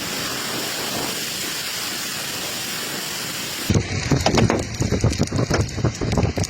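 Torrential rain pouring down in a steady hiss. About three and a half seconds in, it changes abruptly to a busier run of irregular knocks and clatter.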